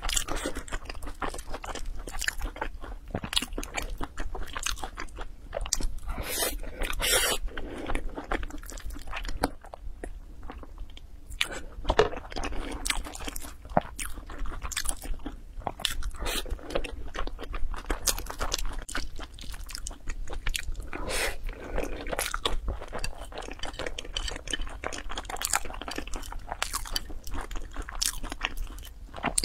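Close-miked mouth sounds of a person chewing and biting food, wet and crunchy, with chopsticks clicking and scraping on a ceramic plate.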